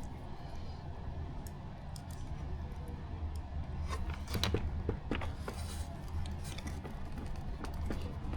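Light clicks and taps of small plastic parts and tools being handled during kit assembly, scattered from about four seconds in, over a steady low hum.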